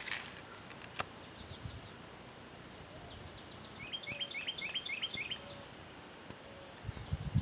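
Wild birdsong over faint outdoor background noise: a bird sings a quick run of about eight repeated chirps a little past the middle, with fainter chirps before and after it. A sharp click comes about a second in, and a few low thuds near the end.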